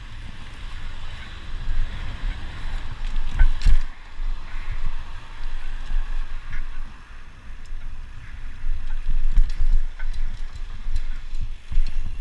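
Wind buffeting the microphone during a ride, an uneven low rumble over a steady hiss, with a few sharp knocks, the loudest about three and a half seconds in.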